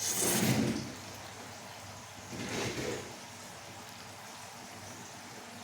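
Instant noodles being slurped, twice: a short burst right at the start and another about two and a half seconds in, over a steady low hum.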